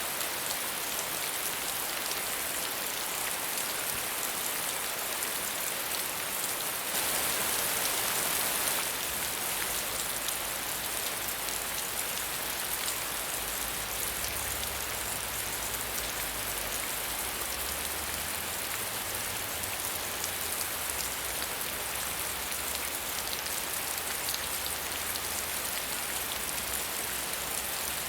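Steady medium rainfall, a dense even patter of drops on a surface, a little louder and brighter for a couple of seconds about a quarter of the way in, with a faint low rumble underneath in the second half.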